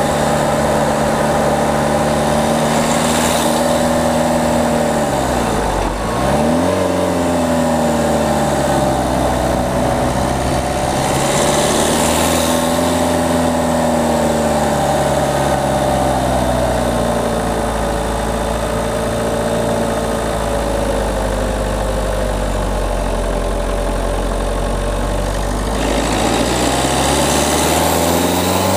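Peugeot 208's diesel engine running under way, heard from the front of the car. The revs drop sharply about six seconds in and climb straight back, rise and fall twice more, hold low and steady through the middle, then climb again near the end as it accelerates.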